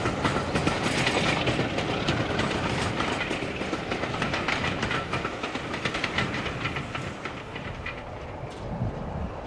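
Passenger train's wheels clicking over the rail joints as it runs away, the clatter fading.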